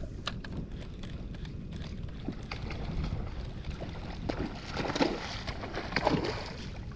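Wind buffeting the microphone on a fishing kayak, with light water splashes and scattered small clicks and knocks.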